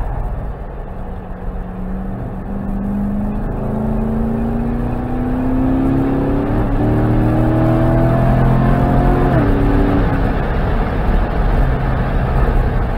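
The Corvette C7 Grand Sport's 6.2-litre LT1 V8 pulls hard under acceleration, heard from inside the cabin over heavy road and wind noise. Its pitch climbs from about a second in and steps briefly near three and a half seconds. It keeps rising until about nine seconds in, then drops sharply.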